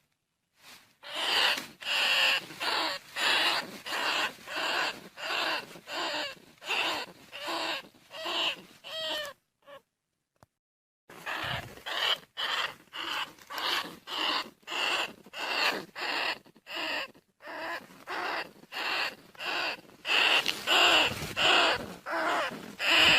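Bandicoot rat calls, a recording used as a lure: short calls repeated about twice a second. They break off for about a second and a half near the middle, then resume.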